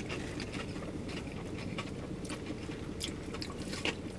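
Two people chewing fried chicken tenders with their mouths close to the microphone, with scattered small wet clicks and crunches, over a steady low hum.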